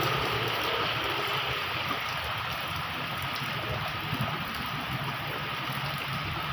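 Heavy rain falling steadily, a continuous hiss of water. In the first half second a motor vehicle's engine fades away.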